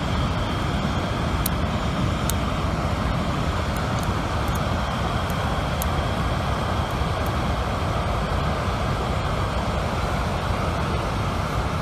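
Steady rushing of a river, a constant even noise, with a few faint high ticks in the first few seconds.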